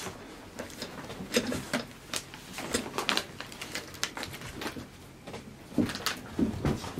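Kai Ken dogs jostling around close by: irregular light clicks, scuffs and rustles, with a few soft thumps, from paws and bodies moving on a cushion and rug.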